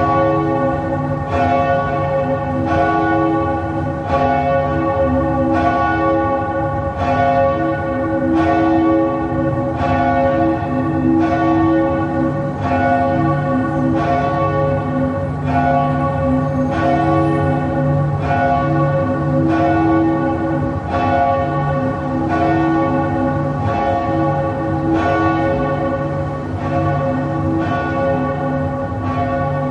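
Church bells tolling a slow death knell, about one stroke every second and a half, each stroke ringing on into the next.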